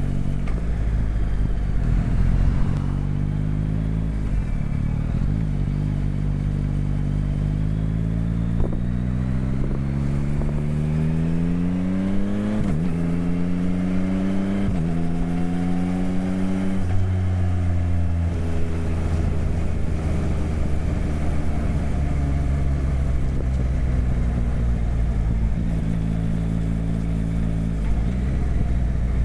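Motorcycle engine accelerating, its pitch climbing, dropping sharply once at an upshift about twelve seconds in and climbing again. About seventeen seconds in the pitch falls as it slows, then it holds steady while cruising, with low rumble and wind noise underneath.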